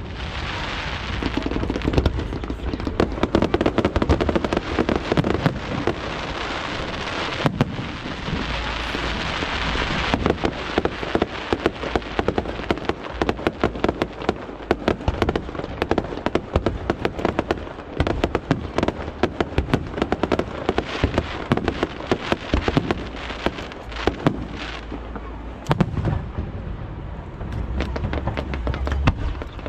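Aerial fireworks shells bursting in quick succession, with many sharp bangs over a dense crackling hiss. The crackle is thickest in the first ten seconds; after that the bursts come more as separate bangs.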